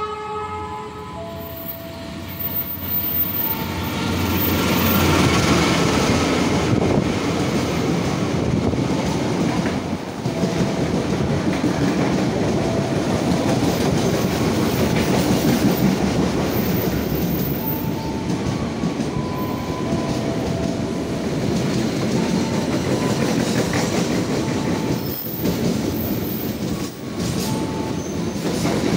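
Diesel-hauled passenger train, KA Tegal Bahari, arriving at speed with its horn sounding briefly at the start. Its coaches then pass close by in a loud, steady rumble of wheels on rails.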